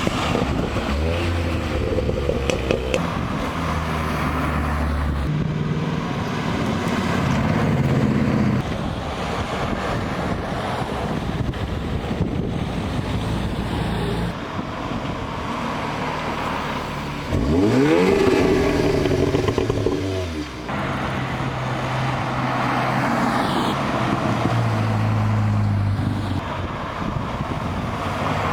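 Car engines running and moving off, their pitch shifting in steps, with one engine revving up sharply and loudly about two-thirds of the way through.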